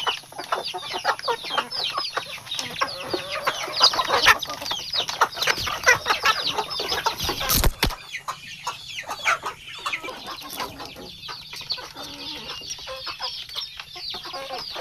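A flock of chickens feeding, with dense, overlapping clucking and chirping calls, busiest in the first half. A brief loud bump cuts across the calls about seven and a half seconds in.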